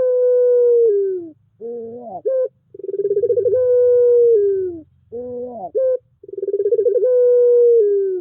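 Puter pelung dove cooing its long coo three times. Each coo starts with a quick pulsing build-up into a held note of about two seconds that drops in pitch at the end, followed by a short rising note. It is a lure recording meant to set silent doves cooing.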